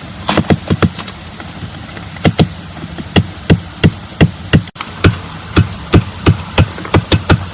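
Repeated hard knocks of a tool striking a solid material, in runs of about three a second over a steady hiss.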